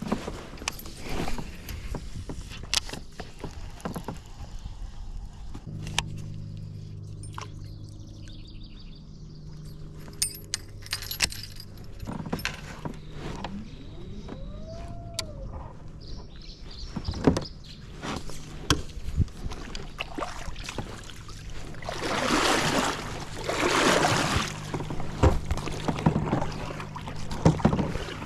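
Clicks and knocks of fishing gear being handled on a kayak, with a steady low hum setting in about six seconds in and two splashy rushes of water noise near the end.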